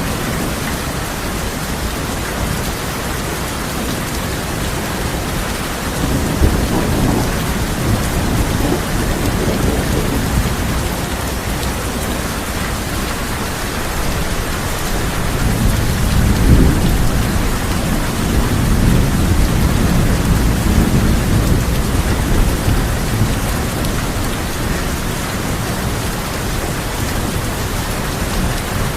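Steady heavy rain drumming on a tin roof, with two long rolls of thunder: one rumbling in about six seconds in, and a longer, louder one from about fifteen seconds that fades away near the end.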